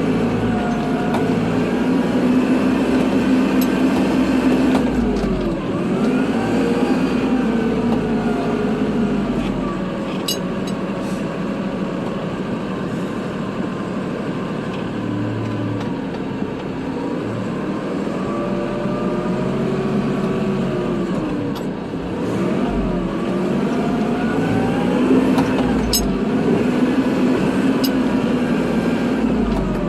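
Kubota tractor's diesel engine running while plowing snow, its pitch dipping and rising again several times as the load and engine speed change, with a few sharp clicks.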